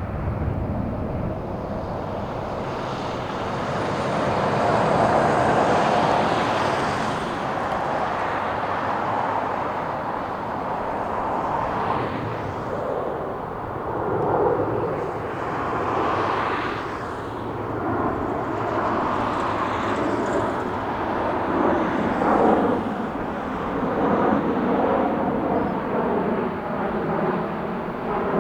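Boeing P-8A Poseidon's twin CFM56 turbofan engines running as the jet passes, a continuous jet noise that swells and fades in loudness.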